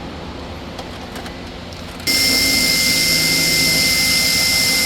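Power drill with a step ("Christmas tree") bit switching on about two seconds in and running steadily with a high-pitched whine, widening a camera mounting hole. A few faint clicks come before it starts.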